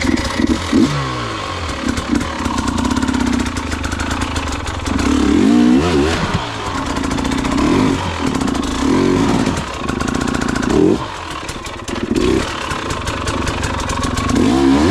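Enduro dirt bike engine revving in repeated bursts as the throttle is opened and closed, the pitch rising again and again while the bike works over a slippery, rough trail.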